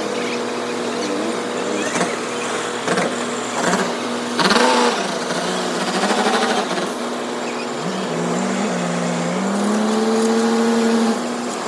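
Vehicle engines in road traffic with a steady hum. A vehicle passes close with a loud rush about four and a half seconds in, and an engine revs up with rising pitch from about eight seconds in.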